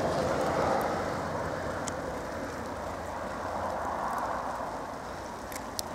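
Car driving at highway speed on a snow-covered road, heard from inside the cabin: a steady rush of tyre and road noise over a low engine hum.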